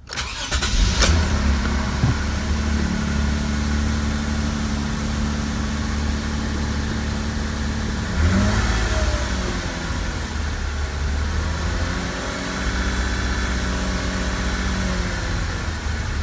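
Toyota Mark X 250G's 2.5-litre V6 engine starting and catching right at the start, then running at a steady idle. About eight seconds in the engine speed rises and falls back briefly, and it swells and settles again more gently later on.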